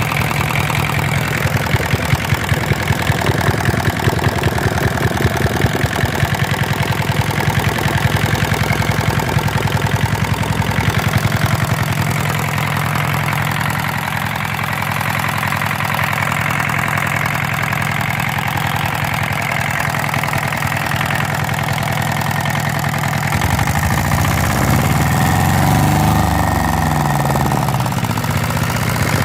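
Hatz diesel engine running, with a strong, even pulse from its firing for the first ten seconds or so, then running more smoothly. Its speed rises and falls briefly near the end.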